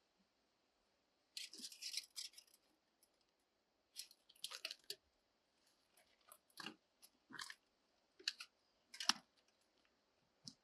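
Short, crisp crackles and clicks in a small enclosed space: a brief rustling burst about a second and a half in, then a scattered run of single clicks and crunches.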